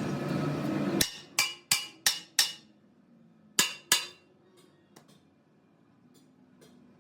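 A steady noise cuts off about a second in, followed by hammer blows ringing on steel: five quick strikes, a pause, then two more, each ringing briefly.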